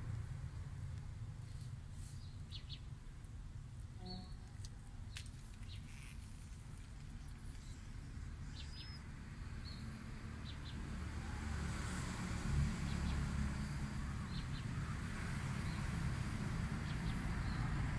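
Short bird chirps now and then over a steady low rumble.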